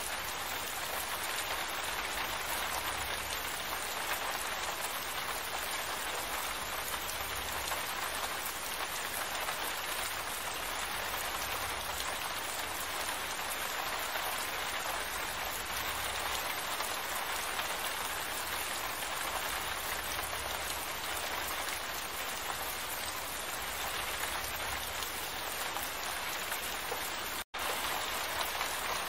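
Steady rain falling, an even hiss of many drops, cutting out for an instant near the end.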